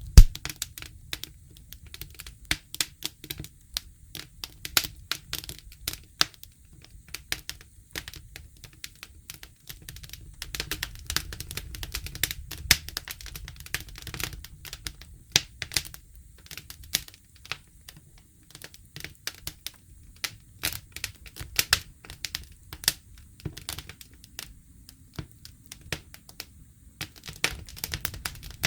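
Wood campfire crackling and popping irregularly, with one loud pop right at the start, over a low steady rumble.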